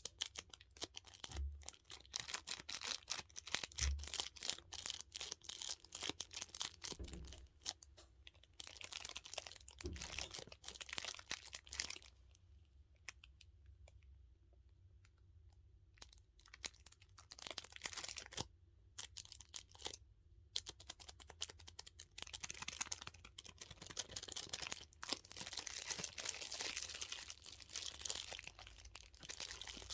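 Close-up crinkling and clicking of plastic as a dumpling-shaped squishy toy and its plastic case and wrapping are handled, in dense rapid crackles that ease off for a few seconds near the middle.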